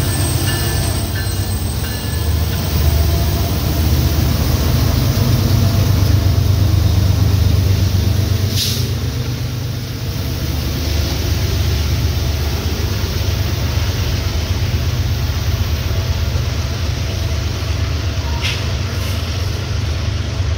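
Diesel locomotives of a loaded coal train going by with a steady low engine drone, loudest a few seconds in. Two brief sharp noises come from the train, one about nine seconds in and one near the end.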